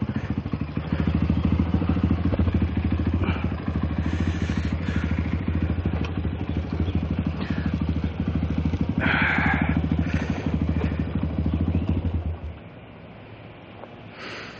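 Small motorcycle engine running at low speed with an even beat of firing pulses, then switched off about twelve seconds in.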